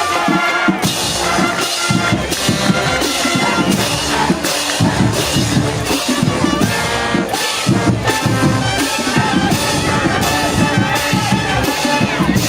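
Marching band playing in a stadium: brass horns over a steady drum beat, with crowd noise underneath.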